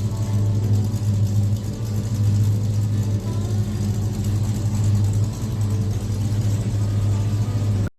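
Dodge Coronet's rebuilt 383 big-block V8 running steadily through a stainless exhaust with Dynamax mufflers, a deep even engine note that cuts off suddenly near the end.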